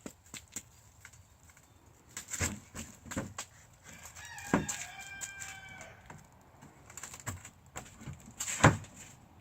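A rooster crows once, about four seconds in, a single drawn-out call that drops in pitch at the end. Scattered knocks and clatters come before and after it, the loudest one near the end.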